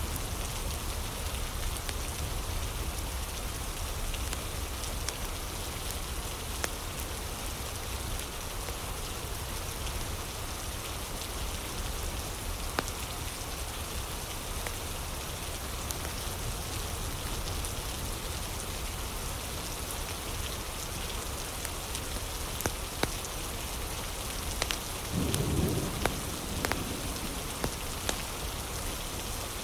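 Steady rain, with scattered sharp crackles of a wood fire and a short low rumble of thunder near the end.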